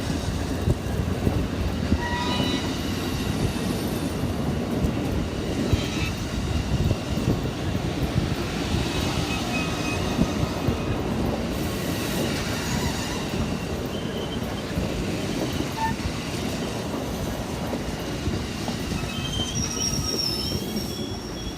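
A train rolling past, with a steady rumble of steel wheels on rail and brief high-pitched wheel-flange squeals now and then, heard around two seconds in and again near the end.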